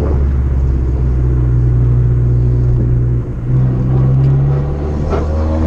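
Turbocharged 1.4-litre four-cylinder engine and exhaust of a tuned Fiat 500 Abarth running under load at steady revs while driving. The note dips briefly about three seconds in, then carries on.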